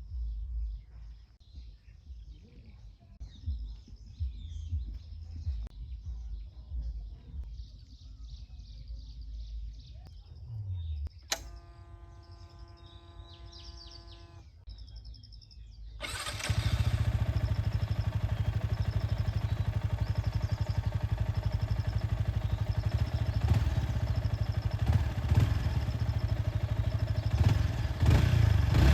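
Birds chirping over a low rumble. About eleven seconds in comes a click and a steady whine lasting a few seconds. About sixteen seconds in, the Yamaha XSR155's single-cylinder engine starts and runs steadily, getting a little louder near the end.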